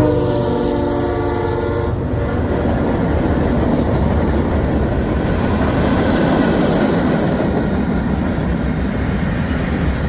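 CSX freight train passing: the locomotive horn sounds a chord of several tones that cuts off about two seconds in, followed by the steady rumble and clatter of wheels on the rails.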